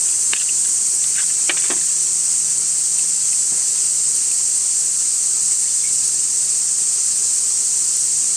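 Cicadas shrilling in a dense, steady chorus, an even high-pitched hiss. A few light clicks sound in the first two seconds.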